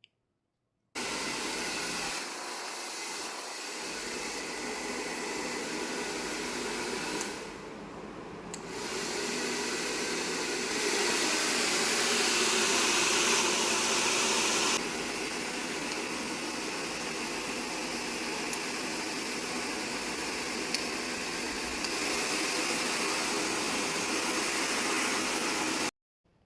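URBANNOVA 2000 W hair dryer running with a steady rush of air, the level stepping down and up several times as it is switched between its speed and hot/cool settings, loudest for a few seconds in the middle, then cutting off suddenly just before the end.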